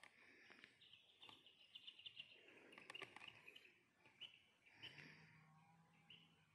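Faint birdsong: quick chirps and short twitters over near silence, with a few soft clicks and a faint low hum joining about five seconds in.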